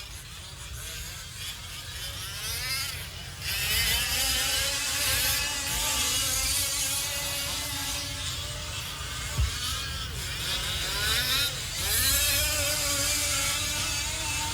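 Several fifth-scale RC off-road trucks' small engines buzzing together as they race, their pitches overlapping and rising and falling with throttle. They get louder about three and a half seconds in.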